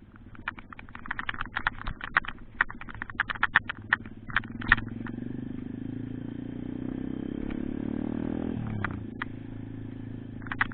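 Pit bike's small single-cylinder four-stroke engine running under way, with rapid clicks and rattles through the first half. Its pitch then climbs steadily for a few seconds as it accelerates and drops sharply about three-quarters of the way in.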